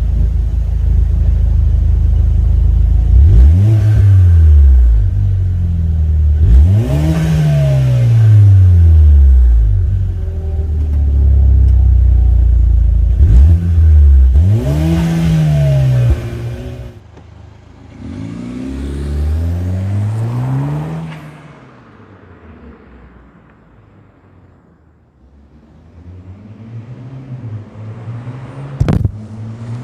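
Chevy Cruze 1.4-litre turbo four-cylinder exhaust through MagnaFlow 14851 Street Series mufflers with the second catalytic converter deleted, idling and blipped in free revs. Three strong revs rise and fall in the first half and a weaker fourth follows. After that the idle drops quieter, there is a sharp click near the end, and another rev begins.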